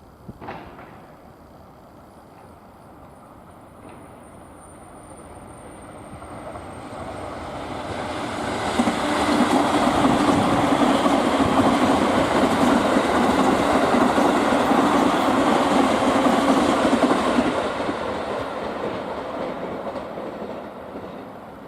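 A train passing on the rails: it grows louder over several seconds, stays loud with wheels clattering over the rail joints for about eight seconds, then fades away.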